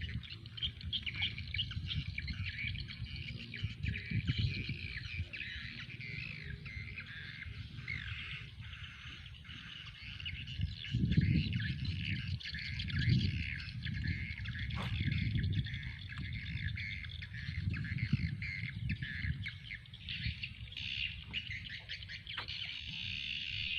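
Many birds chirping and calling continuously, over an uneven low rumble.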